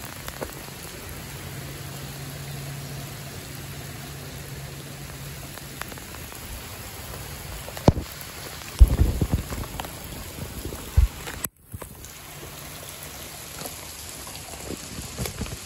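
Steady rain falling on pavement and grass, with a few close knocks about halfway through.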